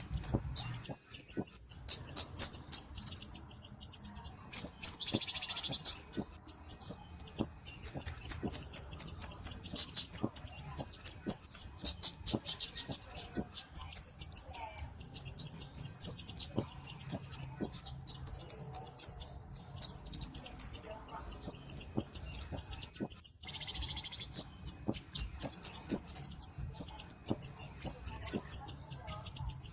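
A kemade cabe-cabean flowerpecker calls in long, fast runs of high, sharp ticking chirps, several a second, broken by a few short pauses. Twice a brief harsh, hissy note cuts in.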